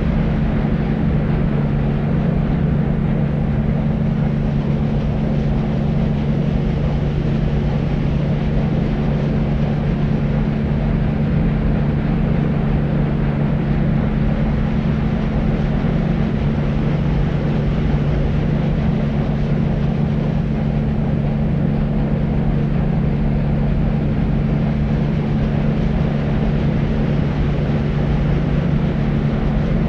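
Deep white noise: a steady, low, rumbling hiss with no changes, carrying a steady low hum in its bottom range.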